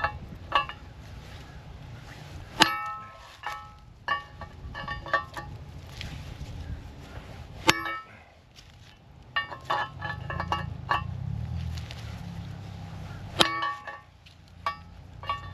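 Hammer strikes on steel, ringing: three hard blows about five seconds apart with lighter clinks and taps between, driving the old front wheel bearing out of a Ford Fusion's steering knuckle without a press.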